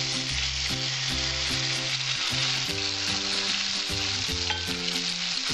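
Poppy-seed paste sizzling steadily as it fries in hot mustard oil in a kadai, being stirred.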